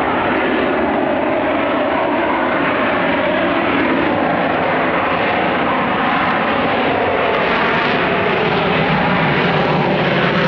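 Military jet aircraft's engine noise, loud and steady, growing slightly louder and brighter toward the end as the jet draws nearer.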